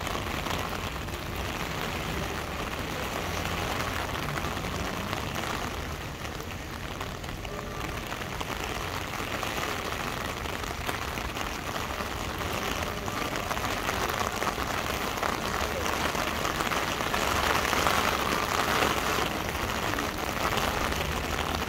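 Rain falling steadily, a dense even hiss of drops on the street and surfaces around, swelling louder for a few seconds near the end.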